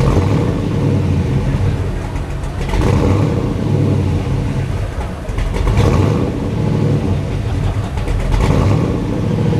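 Supercharged V8 of a 1956 Chevrolet Bel Air running with a low rumble and revved four times, about every three seconds, each rev rising and falling back to idle.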